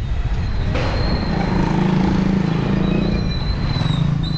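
Street traffic heard from a moving bike, with wind rumbling on the microphone. A high, thin squeal comes in about a second in and again near the end, over a lower hum in the middle.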